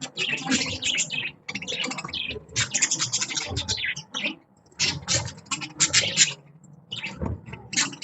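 Budgies chattering in fast, scratchy warbles and chirps, in several bursts with short pauses about four and a half and seven seconds in.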